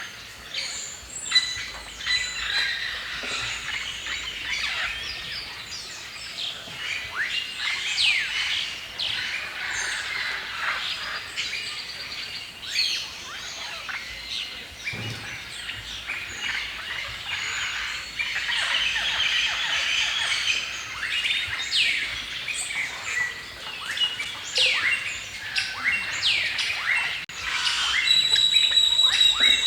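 Many songbirds chirping and singing at once, a dense chorus of quick falling chirps overlapping throughout. Near the end a clear, steady high whistled note is held for a couple of seconds.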